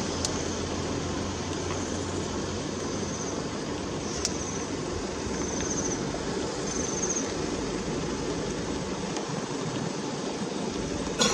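Steady running noise of a pickup's idling engine with a low hum. An insect repeats short, high chirping trills every second or so.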